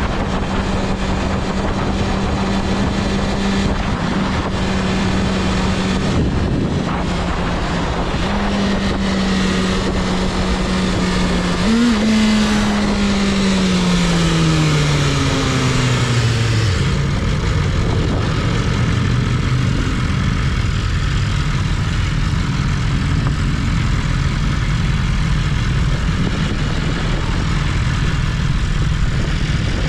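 BMW S1000RR's liquid-cooled 999cc inline-four engine running at a steady cruising note under heavy wind rush. About twelve seconds in there is a quick blip, then the engine note falls steadily for several seconds as the bike slows and settles to a lower steady note.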